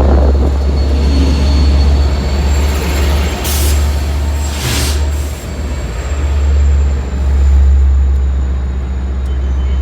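Long Island Rail Road train rumbling steadily at the station, with two short hisses of air about three and a half and five seconds in.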